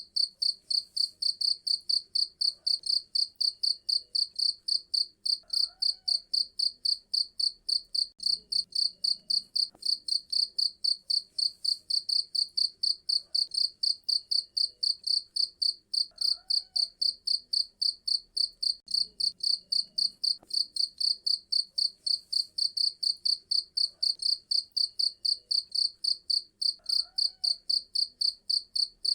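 A cricket chirping continuously in a steady, rapid, high-pitched rhythm of about three to four chirps a second.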